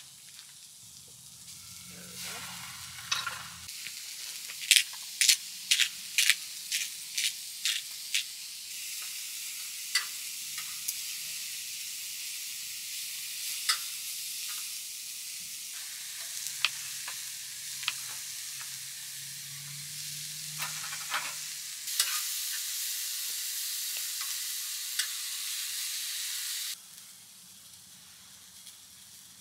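Salmon, broccoli and mushrooms frying in a pan, a steady sizzle that grows louder partway through and stops abruptly near the end. A quick run of sharp clicks and taps comes early on the sizzle, from a utensil stirring against the pan.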